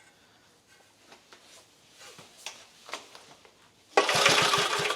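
About four seconds in, a single pull of the starter rope briefly spins the 1950 REO engine over, a fast noisy whirr with several quick compression pulses, and it does not fire. Before that there are only faint handling clicks.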